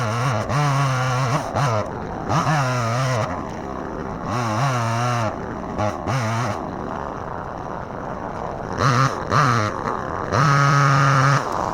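Two-stroke chainsaw cutting, its engine pitch rising and falling over and over as the chain bites and frees up, held high and loudest for about a second near the end.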